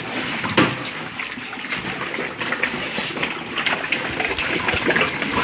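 Water running steadily and splashing, with scattered small clicks and knocks through it.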